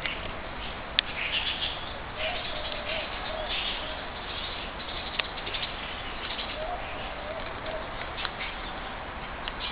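Birds calling outdoors: short phrases of two or three low cooing notes recur every few seconds over scattered higher chirps. A sharp click comes about a second in.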